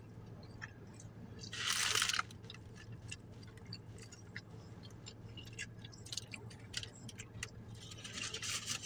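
A person chewing a burger, with small wet mouth clicks. A brief louder rustle comes about a second and a half in, another softer one near the end, over a steady low hum.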